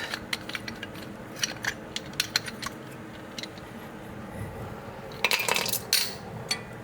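Metal tools and brake caliper parts being handled: scattered light clinks and clicks, with a louder metallic rattle and scrape lasting about a second near the end.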